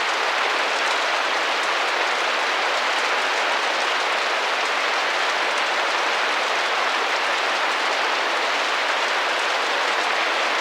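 Steady rain on a window pane: an even hiss of rain with faint ticks of single drops.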